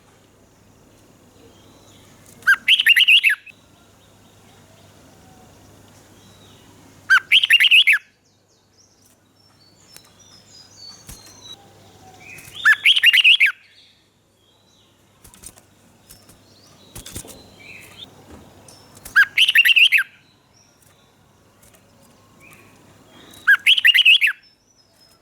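Red-whiskered bulbul singing: five short, loud, warbling song phrases, one about every five seconds, with softer chirps between them.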